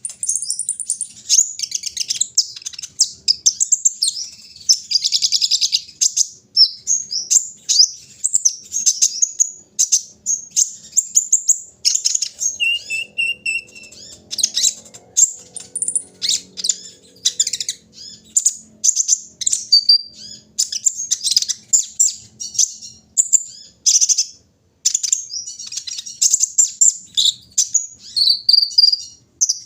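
Sunbird (kolibri ninja) singing a fast, continuous run of high-pitched chirps and twittering trills.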